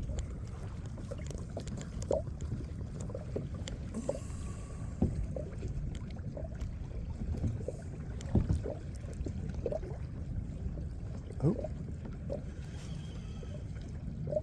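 Water slapping and gurgling against a kayak's hull in short splashes every second or two, over a steady low rumble.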